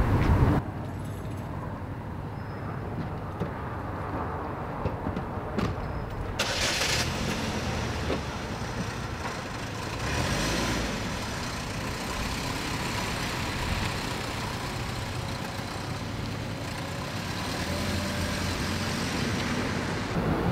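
A sedan's engine starts about six seconds in, just after a faint click, then runs steadily as the car drives off near the end.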